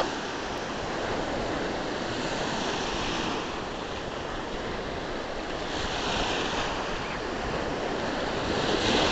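Sea surf washing onto the shore: a steady rushing with the hiss swelling about every three seconds as waves break.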